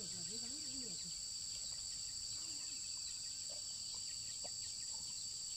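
Insects in the field chirring steadily in a continuous high-pitched drone.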